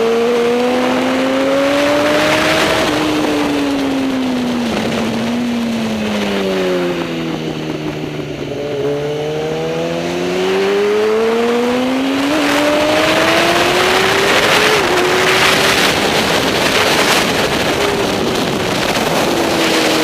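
Superbike racing motorcycle engine at high revs, pitch rising under acceleration, falling away for about five seconds as it slows, then climbing again, with brief steps in pitch at the gear changes.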